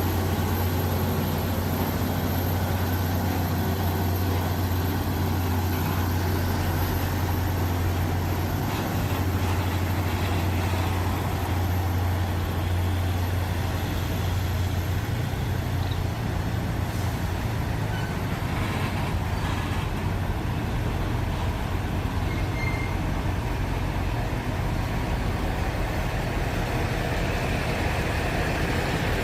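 Heavy truck's diesel engine running steadily with a low drone; its note shifts slightly about halfway through, with a few faint knocks over it.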